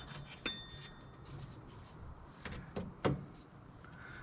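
A few light metallic clinks and knocks as a water pump is lowered into place on an engine, one of them ringing briefly about half a second in.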